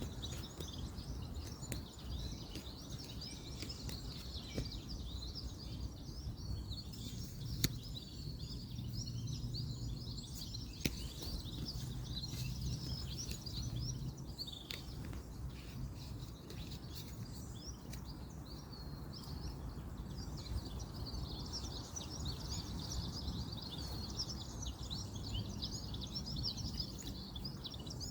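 A dense chorus of birds chirping over the steady low rumble of distant road traffic. A few sharp clicks stand out briefly, about eight and eleven seconds in.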